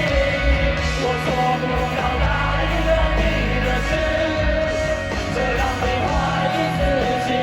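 A live rock band playing a song on stage, with electric guitars, bass and drums in a full, steady mix.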